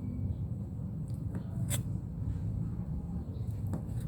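A few light clicks and taps from handling food and kitchen utensils, over a steady low hum.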